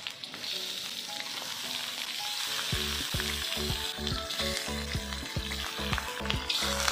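Pieces of fish sizzling in hot oil and spice paste in an aluminium wok as they are dropped in, with a few light knocks. Background music with a pulsing bass beat comes in about three seconds in.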